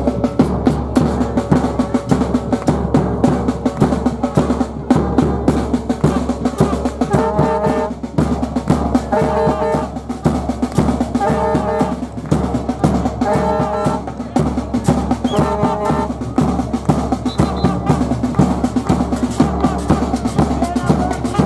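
Music of steady, dense drumming. Through the middle a brass-like horn plays a short held phrase about every two seconds.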